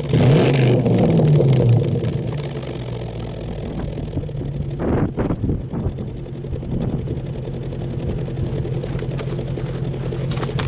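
Jaguar S-Type V8 with a Zaustworks aftermarket sport exhaust, its revs falling back over the first couple of seconds and then settling into a steady idle. There is one brief louder burst about five seconds in.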